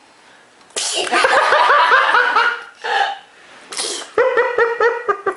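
A baby sneezes twice, each sneeze a sudden sharp burst, the first a little under a second in and the second near four seconds in; a quick run of laughter follows each one.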